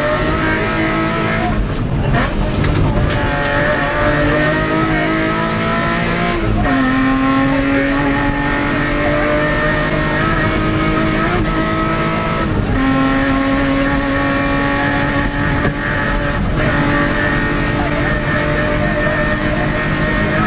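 BMW 325i E36's straight-six engine under hard acceleration, heard from inside the cabin, pulling up through the gears. The revs climb slowly and drop sharply at upshifts about six and a half and twelve and a half seconds in.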